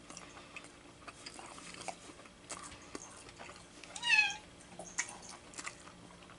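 A cat meows once, a short call falling slightly in pitch about four seconds in, over faint chewing and small clicks of someone eating.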